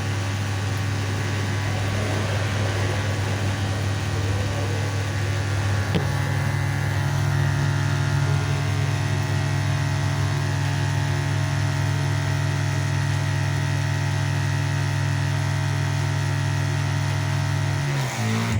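Hisense WTAG805T automatic washing machine's motor running with a steady hum. About six seconds in the hum steps up to a higher pitch, and it stops just before the end.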